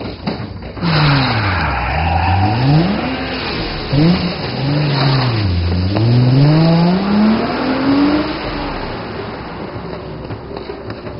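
A car engine revving, its pitch falling and rising again in two long sweeps, over a wash of tyre and road noise. The sound fades off toward the end.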